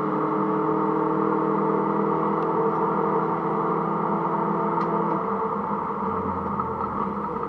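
Mini Cooper S (R53) supercharged four-cylinder engine heard from inside the car on track, holding steady revs under load. The engine note drops about five seconds in.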